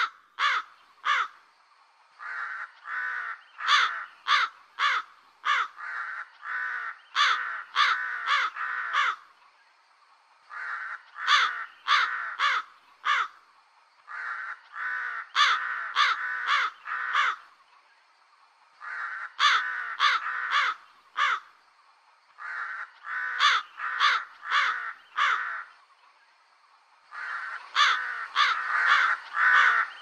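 Crows cawing in runs of three to five harsh caws, a run about every four seconds, with rougher, lower calls filling the gaps between caws.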